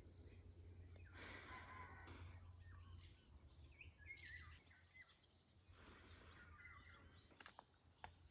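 Near silence: faint ambience with a few soft bird chirps, and a couple of faint clicks near the end.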